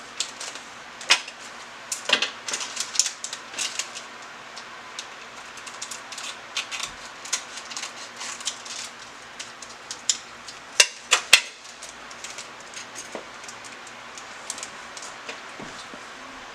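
Spoon or measuring spoon clinking and scraping against a bowl while baking soda is added to slime mix: many irregular light clicks and taps, with a cluster of louder knocks about eleven seconds in, thinning out near the end.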